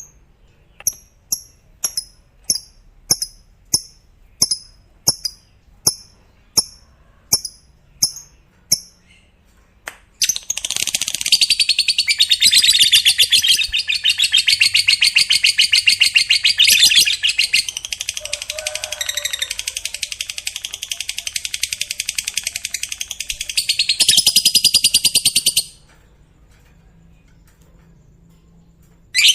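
Lovebird giving a string of short, sharp single chirps a little under a second apart, then breaking into one long, unbroken, rapid high chattering trill of about fifteen seconds that cuts off suddenly. This is the long 'ngekek' chatter prized in fighter-type lovebirds.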